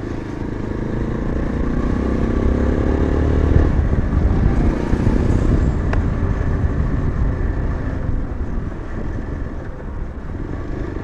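Yezdi Adventure motorcycle's single-cylinder engine pulling under acceleration, its pitch rising for the first three to four seconds, then dropping suddenly at a gear change before running on at a steadier speed. A single sharp click comes about six seconds in.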